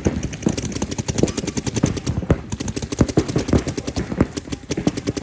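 Paintball markers firing rapid strings of shots, the shots from several guns overlapping in an irregular, continuous rattle.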